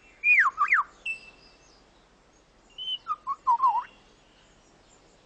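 Superb lyrebird singing: two phrases of clear whistled notes. The first slides downward in pitch and ends on a short held high note. The second, about three seconds in, is a quick run of wavering lower notes.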